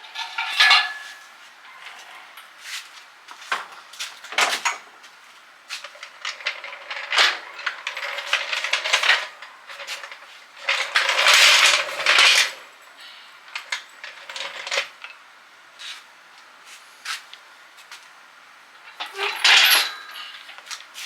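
Small metal objects clinking and clattering irregularly, as tools or parts are handled and set down, with longer rattling stretches about halfway through and near the end.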